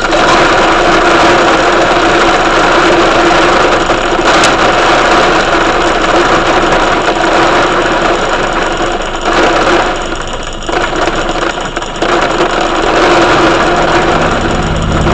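Heavy rain pouring down in a loud, steady hiss that eases slightly midway, with a low rumble building near the end.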